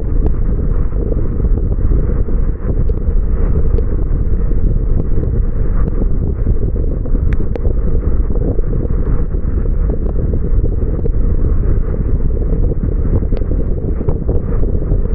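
Steady rumble and hiss of a car driving on a wet road in the rain, with a few faint ticks scattered through it.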